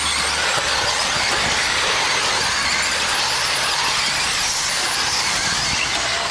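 A pack of electric RC stadium trucks racing, their modified brushless motors making a steady high-pitched whine that wavers as the trucks speed up and slow down.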